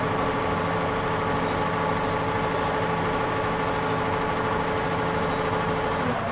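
Computerised embroidery machine running steadily with an even mechanical hum. Right at the end its note drops as it slows to a stop.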